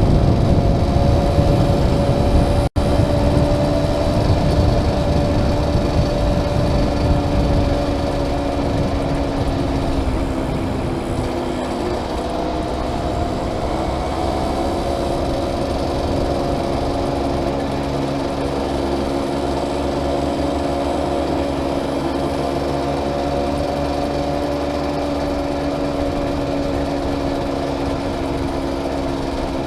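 Small motorcycle engine running at a steady cruising speed, heard from the rider's helmet with wind rumble on the microphone. The wind is heavier for the first several seconds and then eases.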